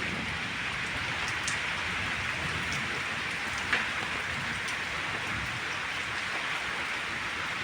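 Steady rain falling, a continuous even hiss with scattered individual drop ticks and one sharper tick just past the middle.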